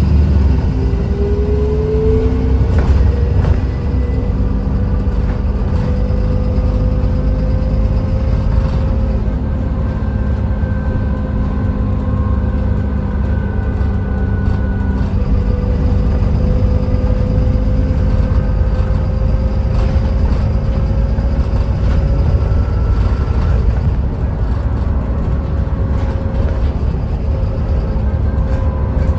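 Dennis Trident 2 Enviro400 double-decker bus with a replacement engine, driving along: a steady low rumble with an engine and drivetrain whine that climbs over the first couple of seconds, then holds roughly steady, drifting slightly up and down.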